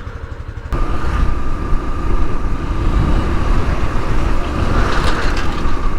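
Yamaha FZS-V3 motorcycle's single-cylinder engine running at idle with a quick low pulse, warming up. Under a second in, the sound jumps suddenly louder and stays steady, with a faint high whine over it.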